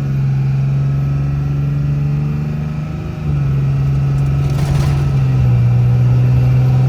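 A vehicle's engine pulling under hard acceleration: a steady drone that dips briefly about three seconds in, then carries on louder.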